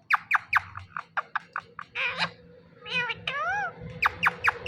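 Indian ringneck parakeet calling: a quick run of short, sharp chirps, with a longer rising-and-falling call about three seconds in.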